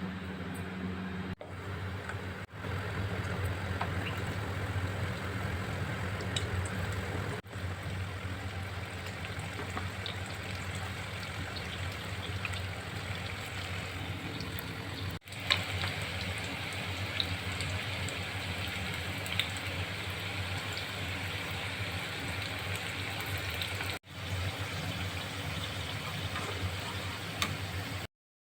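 Spinach and potato fritters sizzling in hot oil: a steady hiss with scattered small pops, broken by brief gaps at several points.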